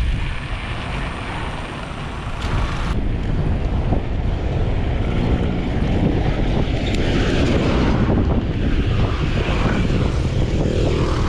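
Strong gusty headwind buffeting an action camera's microphone on a moving bicycle, a loud, rough, continuous rumble.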